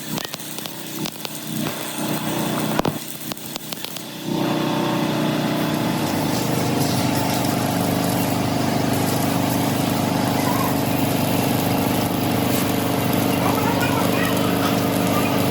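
A few scattered knocks, then about four seconds in a machine motor or engine starts suddenly and runs on with a steady hum.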